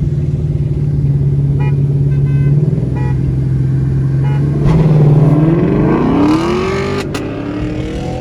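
Car engine running at a steady drone, then accelerating hard about five seconds in, its pitch climbing for over a second. A sharp click comes as the revs drop back.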